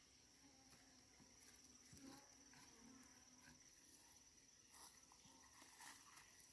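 Near silence: a faint, steady, high-pitched insect trill, with a few faint clicks and rustles.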